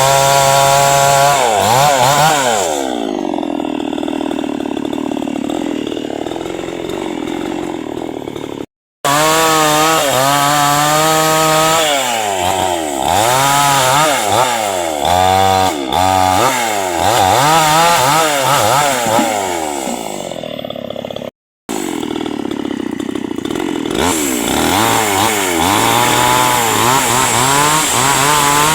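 Two-stroke chainsaw cutting through acacia hardwood, its engine pitch repeatedly rising and falling as the chain bites into the wood and frees up. The sound cuts out abruptly twice for a moment.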